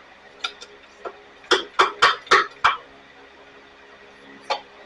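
Metal hand tools clinking against the blower's engine parts: a few light clicks, then a quick run of five sharp metallic clinks about a second and a half in, and one more near the end.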